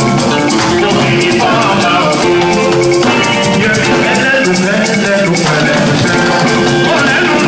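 Live band playing an upbeat groove, with a shaker rattling steadily over drums and guitar.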